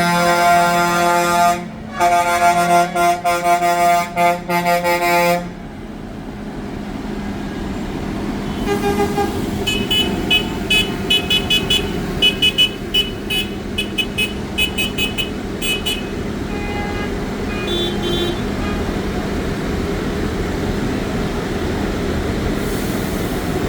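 A tractor's horn sounds loudly, first held, then blown in a string of short blasts for about five seconds. Engines then run as vehicles go by, and a higher-pitched horn beeps rapidly many times for several seconds.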